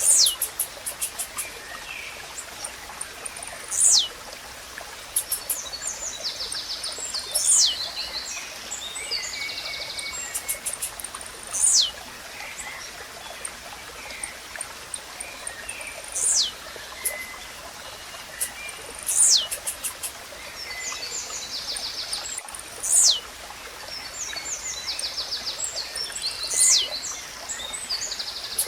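Blue-black grassquit (tizil) singing, repeating one short, sharply falling note about every three to four seconds, over running water, with rapid high ticking chirps of other birds between the songs.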